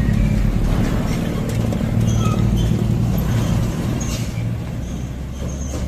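A motor vehicle's engine running steadily, its low hum easing off near the end.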